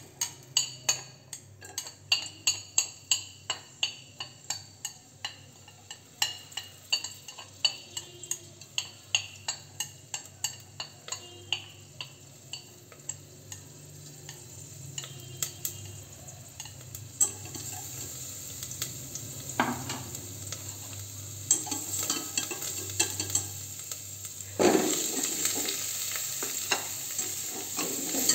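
A utensil tapping and scraping a stainless steel pot, two to three strokes a second, while minced garlic sizzles in it; the sizzle slowly grows. Near the end pumpkin chunks go into the hot pot with a sudden, louder burst of sizzling and stirring.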